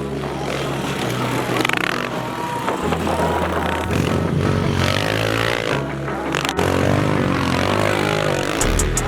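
Pit bike engines revving up and down as the small dirt bikes ride the track.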